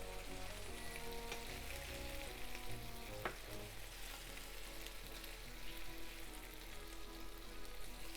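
Chicken thighs sizzling in a frying pan with the heat just turned off, over quiet background music.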